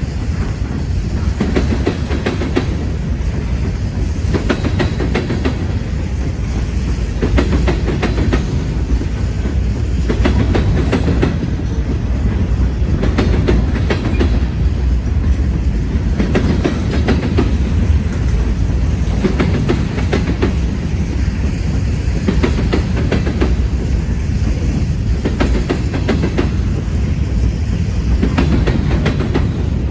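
Norfolk Southern freight train rolling past, its cars making a steady rumble with wheels clicking over the rail joints.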